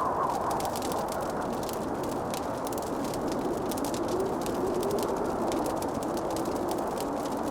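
Wood fire crackling in a fireplace: a dense run of small sharp pops and ticks over a steady low rushing noise, with a faint wavering tone in it that drifts lower in pitch.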